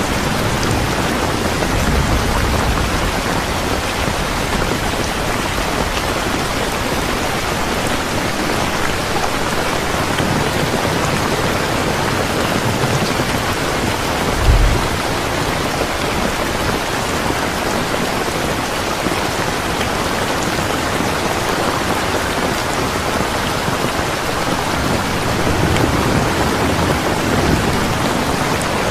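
Steady heavy rain falling, an even hiss of many drops. Low rumbling swells come near the start and near the end, and one brief low thump sounds about halfway through.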